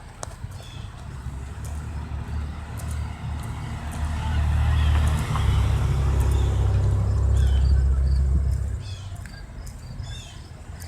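A motor vehicle driving past: a low engine and road rumble that builds, is loudest for several seconds in the middle, then fades away near the end.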